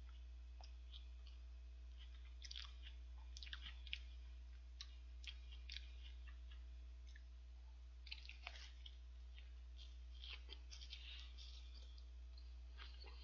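A man chewing a mouthful of burger close to the microphone: soft wet clicks and crunches come in clusters a few seconds apart. Under them runs a steady low hum.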